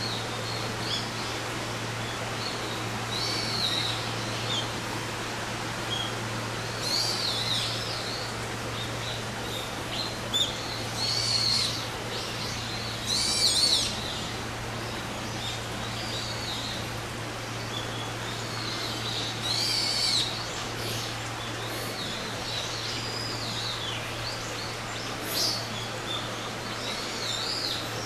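Wild birds calling: short, high, arching calls at irregular intervals over a steady low hum.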